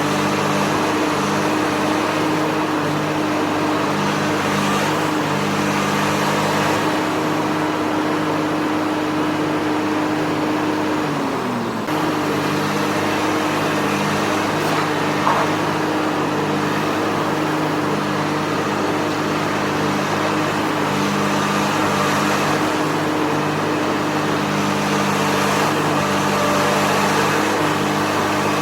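Komatsu PC350 long-reach excavator's diesel engine running steadily under work. Its speed sags briefly and recovers about twelve seconds in. A single short click comes a few seconds later.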